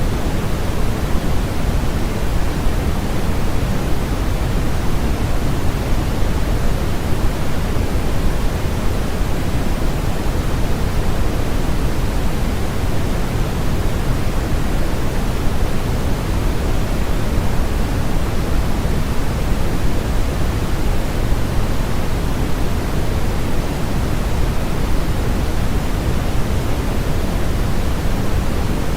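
Steady generated sleep-aid noise: an even, unchanging rushing hiss that is fuller in the low end than thin white noise, closer to pink noise.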